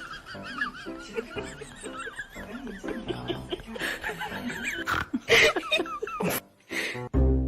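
An animal calling in a fast-wavering, warbling voice, with people laughing.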